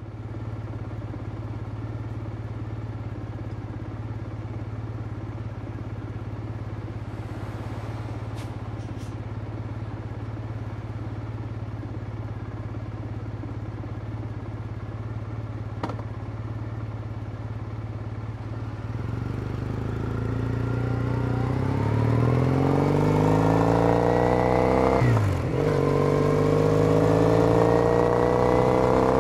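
Triumph Bonneville T214's 865 cc parallel twin, breathing through Norman Hyde TOGA silencers, idling steadily, then pulling away about two-thirds of the way in. The revs climb, drop briefly for a gear change, then climb again.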